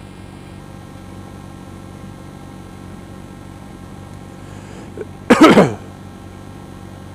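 A steady low hum with a few fixed tones, broken about five seconds in by one short, loud outburst from a person's voice that falls quickly in pitch.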